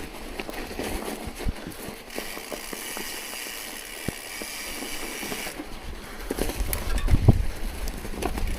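Tyres rolling over snow, with scattered crunches and clicks and a hiss in the middle. Wind buffets the microphone near the end.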